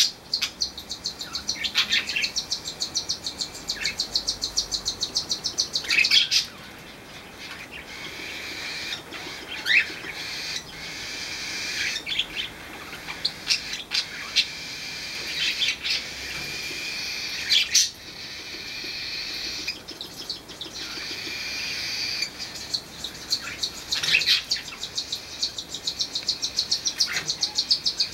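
Pet parakeets and cockatiels chirping and chattering, with long runs of fast, rapidly repeated calls and many sharp single chirps.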